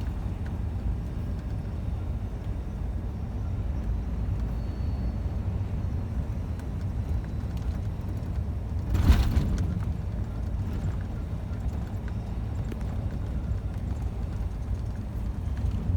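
Scania truck on the road, a steady low rumble of engine and driving. About nine seconds in there is a brief loud rushing burst.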